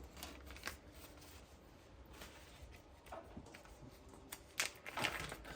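Faint handling noises: scattered light clicks, taps and rustles of small parts being handled, a few a little louder near the end.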